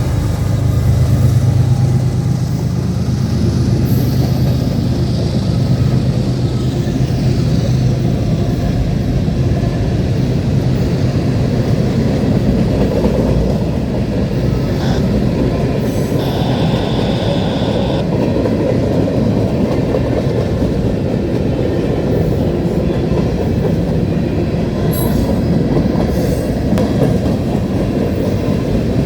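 Freight train cars rolling past at close range, a continuous rumble and clatter of steel wheels over the rails, with a brief wheel squeal about halfway through. In the first few seconds the hum of the diesel locomotive that has just passed fades away.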